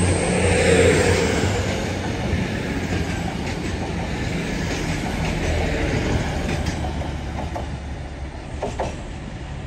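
Diesel train running along the line at the platform: a steady low engine drone with rail and wheel rumble, loudest about a second in and then fading as it moves away.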